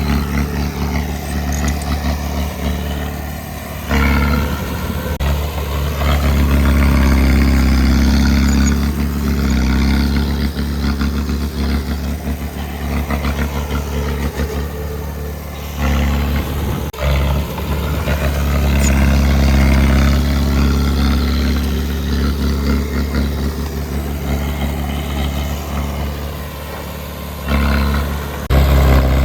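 Diesel engine of heavy earthmoving machinery running steadily under work, rising and falling in load, with abrupt shifts in the sound a few times.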